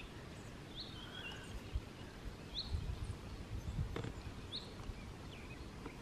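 Quiet outdoor ambience with a small bird repeating a short, high chirp about every two seconds over a faint low rumble.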